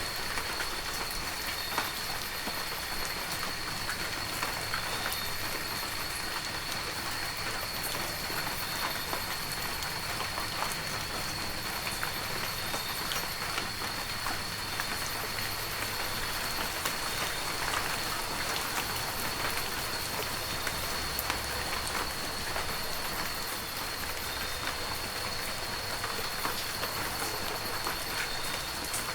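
Heavy rain falling steadily, a dense hiss of rainfall with many individual drops striking close by as small sharp ticks.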